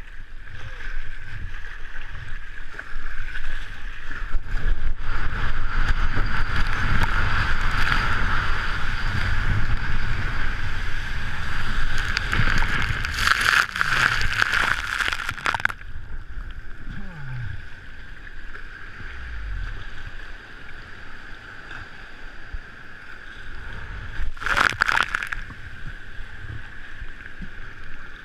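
Water sloshing and splashing around a surf kayak, close on the camera's microphone, with low rumble and a steady hiss. Two loud rushes of water noise come about halfway through and again near the end.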